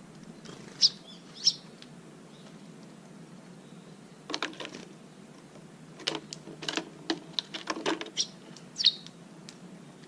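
A small bird chirping: four short, sharp high chirps, two near the start and two near the end. Between them come two bursts of rapid light tapping and rustling, a little before halfway and again later on.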